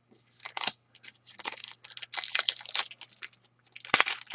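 Hockey trading cards and their foil pack wrapper being handled: a rapid, irregular run of crinkling and clicking.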